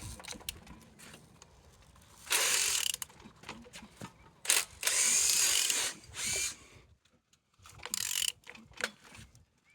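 Removed engine being turned over by hand, with a wrench clicking on the crankshaft, in three spells of rasping clicks; the longest is in the middle. It turns freely, a sign that the engine is not seized.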